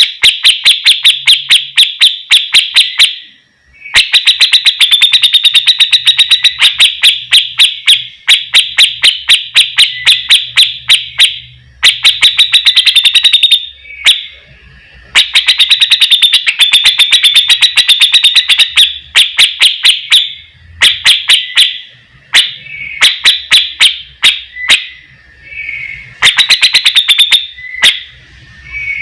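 Cucak jenggot (grey-cheeked bulbul) calling loudly in fast runs of sharp, repeated chattering notes, broken into bursts by short pauses.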